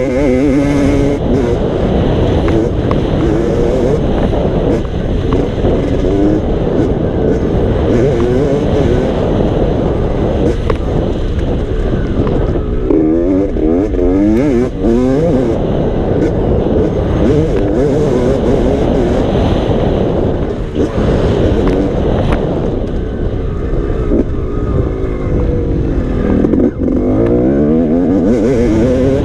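Motocross dirt bike engine running and revving, its pitch rising and falling repeatedly, strongest around the middle and near the end, over a constant rushing noise.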